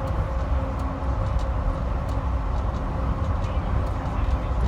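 Steady low rumble of a vehicle in motion, heard from inside, with a faint steady hum over it.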